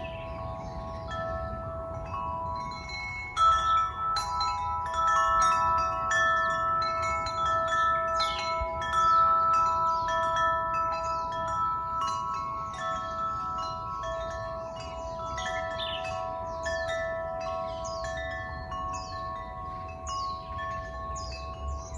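Wind chimes ringing, with many overlapping sustained tones struck irregularly, a little louder a few seconds in.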